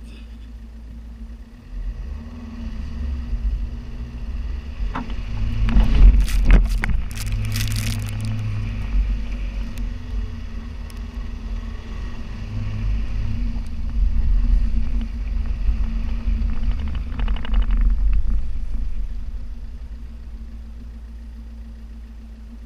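Lancia Delta car driven over a rough, rutted dirt track: the engine runs with a steady low rumble and hum. A cluster of sharp knocks and clatter comes about five to eight seconds in, and the car gets louder again in the middle of the run before easing off near the end.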